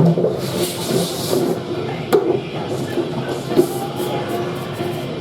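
Restaurant dish station at work: a steady hiss of running water and machinery with a low hum, broken by a few clanks of trays, the sharpest about two seconds in.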